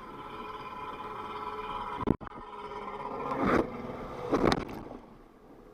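Jet ski engine running steadily, with a sharp knock about two seconds in and two louder rushing bursts a second apart; the engine sound falls away near the end.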